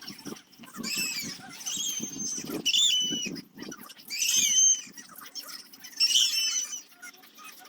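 Hand carving tool cutting into hard torreya wood in repeated strokes. Each cut gives a short, high squeak with a rougher scraping sound beneath it, about every second or so, over a faint steady hum.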